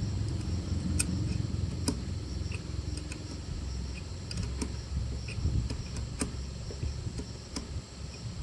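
Scattered sharp clicks and knocks over an uneven low rumble of handling noise, with insects droning steadily high in the background.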